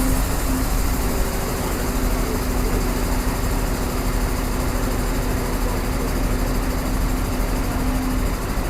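Heavy diesel engine idling steadily, with a constant low hum.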